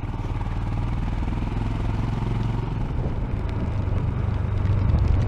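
Royal Enfield Himalayan's single-cylinder engine running steadily on the move, picked up by a microphone inside the rider's helmet with wind and road noise over it. The engine gets a little louder in the second half.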